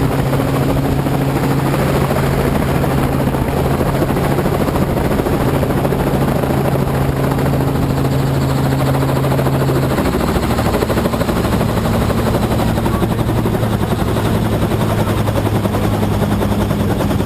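Helicopter running steadily: a loud, continuous drone of rotor and engine. Its pitch steps down slightly about ten seconds in.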